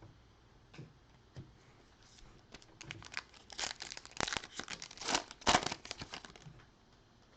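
A trading card pack wrapper being torn open and crumpled: a few faint clicks of cards being handled, then a few seconds of crinkling and tearing, loudest near the end.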